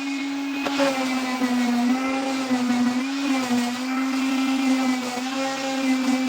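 Electric grinder running steadily, grinding the rust off a hand saw's steel blade. Its motor hum wavers slightly in pitch as the blade is pressed against it.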